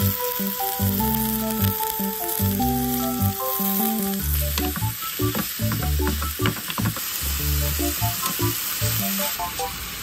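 Minced meat and sliced green onion sizzling in a frying pan, stirred with a spatula, which gives a run of scraping clicks in the middle. Background music with plucky notes plays over it.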